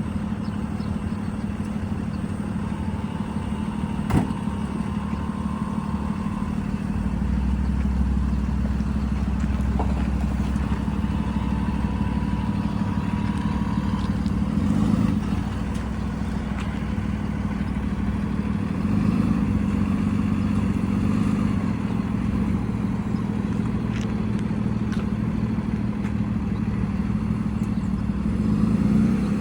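Diesel engines of heavy paving equipment running steadily, with a deeper low rumble joining about seven seconds in and a few light clanks.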